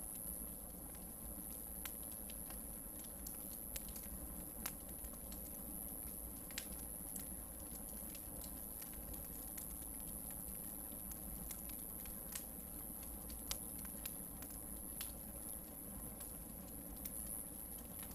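Hardwood logs burning in a campfire, crackling with irregular sharp pops and ticks, over a steady high-pitched hiss.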